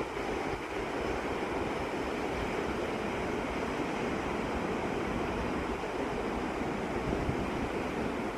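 Wind buffeting a phone's microphone: a steady rumbling, rushing noise with no clear tone in it.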